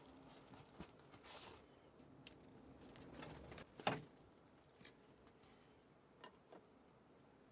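Near silence with a few faint, short clicks and rustles of something being handled, the loudest about four seconds in.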